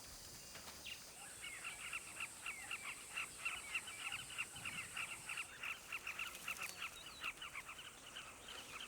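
Birds calling in a long run of short chirping notes, several a second, starting about a second in, with a steady high-pitched whine underneath through the first half.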